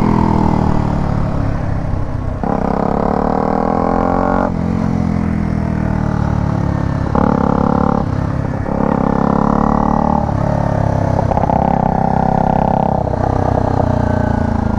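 Motorcycle with a modified aftermarket exhaust revving hard under way. The engine note drops and jumps back up several times, as on throttle blips or gear changes.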